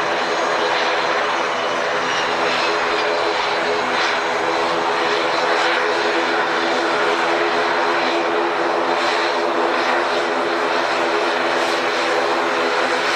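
Propeller airliner's engines running steadily and loud: a constant propeller drone made of several held tones over a broad engine roar, with a faint high whine above it.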